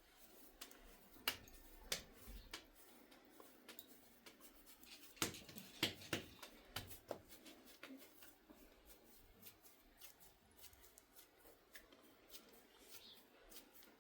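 Faint, scattered sharp clicks and taps in a quiet room, with a few louder ones about a second in and a cluster about five to six seconds in.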